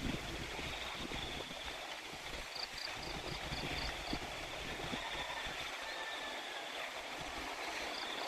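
Rice-field ambience: a steady hiss of flowing water under a continuous high cricket trill, with a quick run of high chirps, about five a second, around three seconds in.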